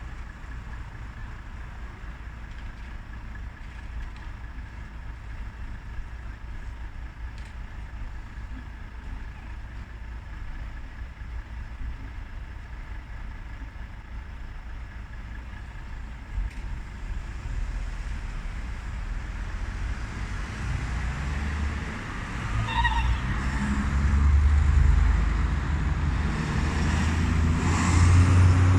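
Heavy road vehicle engine running in passing traffic, a low rumble that grows steadily louder through the second half and peaks twice near the end.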